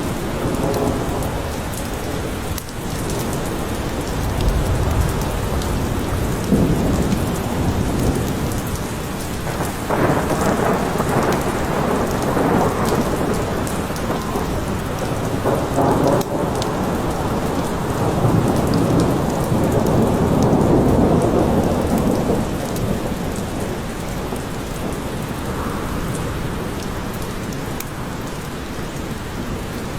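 Steady rain falling, with low rolling thunder that swells and fades several times.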